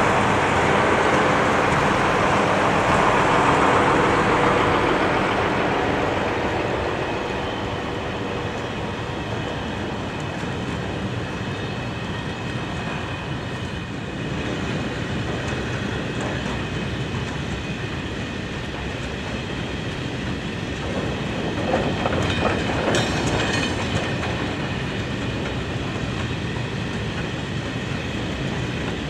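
Two VR Dr16 diesel-electric locomotives running past and fading away as they go. A long freight train of container wagons follows, rolling by with a steady rumble of wheels on rail and a run of clacks over the rail joints a little past the middle.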